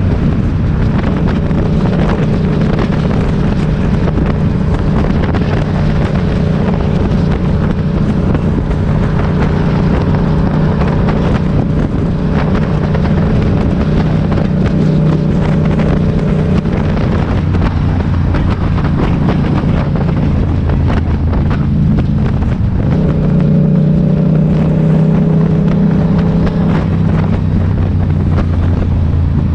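Motorcycle engine running steadily while riding, with a continuous low engine note under road and air noise. The engine note changes for a few seconds past the middle, then settles into a steady note again.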